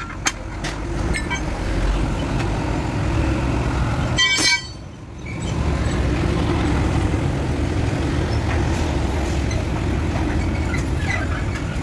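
Concrete mixer truck's engine running steadily, with a short horn toot about four seconds in.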